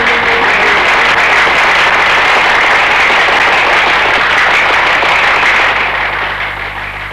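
A large audience applauding, a dense, steady clapping that fades away near the end.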